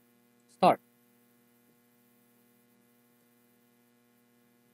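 One spoken word, then near silence with a faint steady electrical hum.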